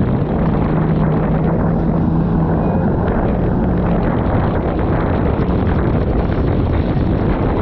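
Jet ski engine running at speed, a steady low hum that fades into the noise about halfway through, under heavy wind buffeting on the microphone.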